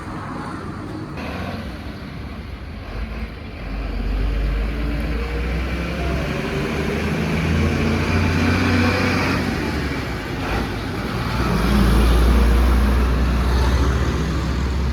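A motor vehicle running, with engine and road noise that swells louder about four seconds in and again near the end.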